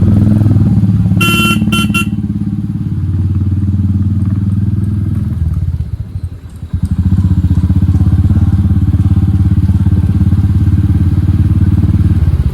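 Royal Enfield Hunter 350's single-cylinder engine running loud through an aftermarket HK exhaust with the dB killer removed, the throttle easing off about halfway through and opening up again. A horn beeps twice briefly near the start.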